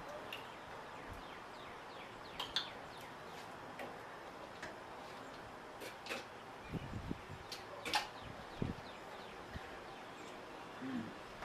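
Sunflower seeds being cracked open between the teeth: scattered small, sharp cracks and clicks several seconds apart over a faint background.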